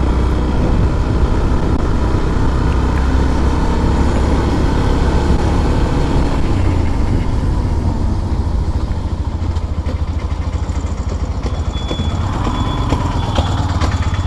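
Yamaha FZS single-cylinder motorcycle engine running as the bike is ridden at low speed, with a steady low rumble of engine and road noise that drops a little about halfway through.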